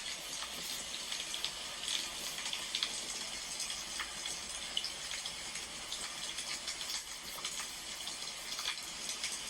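Wood fire crackling: a steady hiss with scattered small pops and snaps.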